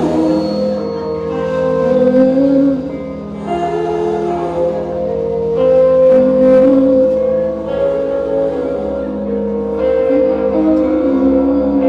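Live rock band music: layered, sustained ringing chords that shift every second or two, with no clear drum beat.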